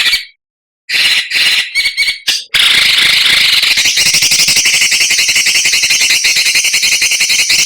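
Songbird giving a few short, harsh notes, then about two and a half seconds in breaking into a long, fast, harsh rattling chatter (the 'besetan' or 'mbeset' type of song) that runs for about five seconds.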